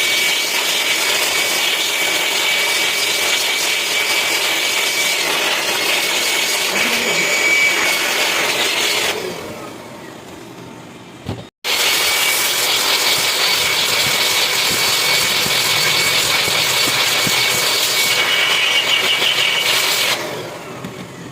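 A loud, steady machine noise, a hiss with a thin high whine over it, from a power tool working on the turbocharger. It eases off around nine seconds, breaks off sharply about halfway, then runs again and fades near the end.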